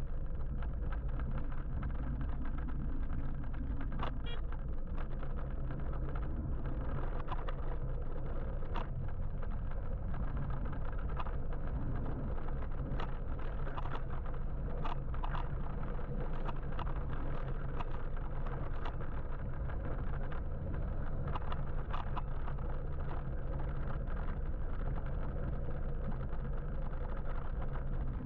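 Steady low rumble and road noise of an electric motorbike ride through traffic, with scattered light clicks and ticks.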